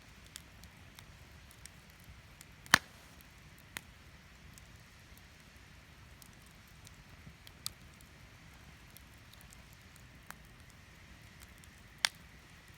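Wood fire crackling: scattered small crackles with a few sharp pops, the loudest about three seconds in and another near the end.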